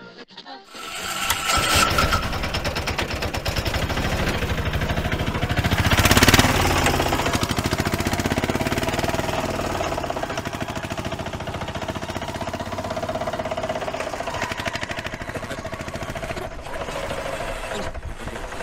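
Engine of an open-sided passenger vehicle starting about a second in, rising to a louder peak around six seconds, then running steadily with a fast, even beat.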